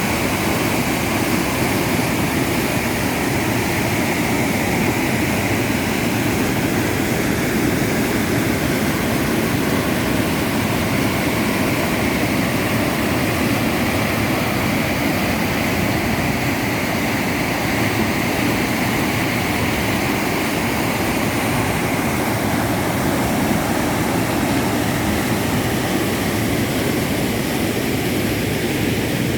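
Waterfall: a steady rush of falling and churning water, loud and unchanging.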